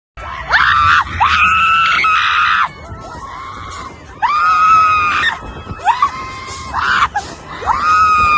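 Riders on a fairground ride screaming: several long, high-pitched screams, each lasting one to two seconds, with short gaps between them.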